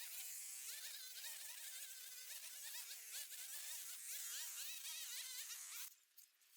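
High, buzzing whine of a small engine, its pitch wavering up and down as the load changes, cutting off suddenly near the end.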